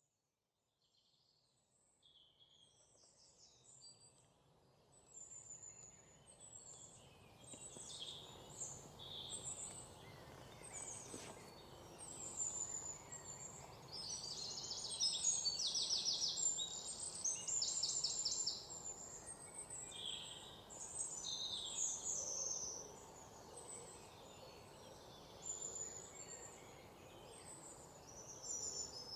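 Birds chirping and singing over a steady outdoor noise bed, fading in from silence over the first few seconds, with rapid trills in the middle.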